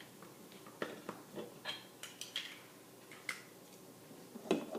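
Light clicks and knocks of small hard objects being handled, about a dozen scattered irregularly, the loudest near the end.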